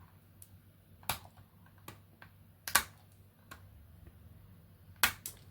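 A few irregular light clicks and taps of hard plastic being handled, the loudest a little under three seconds in and again about five seconds in.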